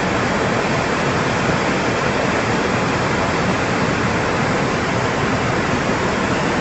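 Floodwater rushing in a steady, loud roar without let-up.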